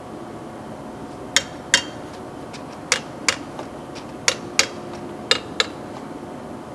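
Four pairs of sharp taps over a steady low hum. The two taps in each pair come about a third of a second apart, and the pairs come roughly every second.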